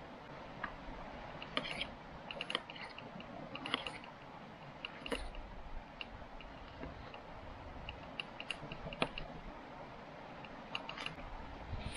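Irregular small clicks and light knocks, a few at a time with gaps between, like camp gear being handled.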